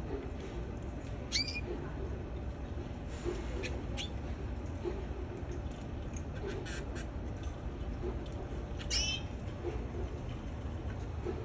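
Canary giving a few short, separate chirps and calls rather than a run of continuous song, the loudest about nine seconds in, over a steady low background rumble.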